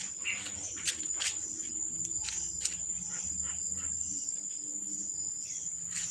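Insects buzzing in a steady, high-pitched drone, with a few short clicks scattered through it.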